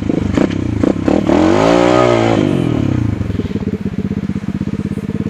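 Pit bike engine revving. The pitch rises and falls once about a second or two in, then settles to a steady low running with a fast even beat. A few sharp knocks come near the start.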